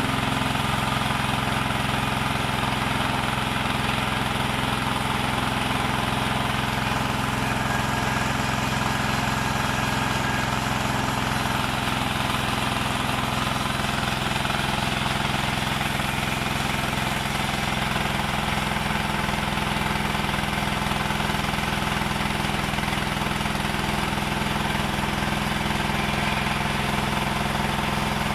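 Powered wood-cutting saw machine running steadily, with an even engine-like drone that does not change in loudness.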